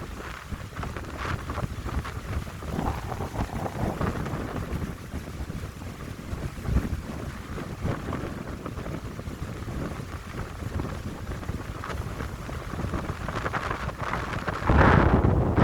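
Wind gusting through a seaside pine grove and buffeting the microphone, an uneven low rumble with a hiss above it. A stronger gust rises about a second before the end.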